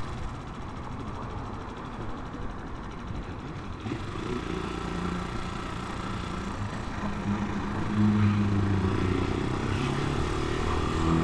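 Italika 250 motorcycle engine running while riding, over a bed of road and wind noise. The engine note grows louder about eight seconds in.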